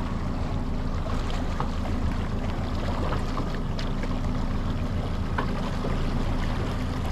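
Boat's outboard motor running steadily under way, a low even hum over a rush of wind and water.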